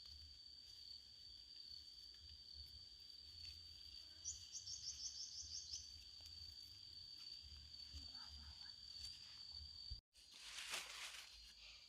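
Insects droning faintly in one steady high-pitched note, with a quick run of chirps from another insect for about a second and a half, about four seconds in. Near the end, after a brief cut, comes a short rustling noise.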